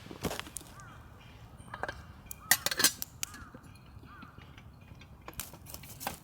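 A few sharp clicks and knocks, the loudest cluster about two and a half seconds in and more near the end, with faint short bird chirps between them.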